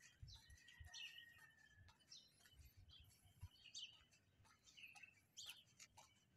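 Small birds chirping and calling in short notes, with one held whistle for about a second and a half early on, over faint soft low thuds.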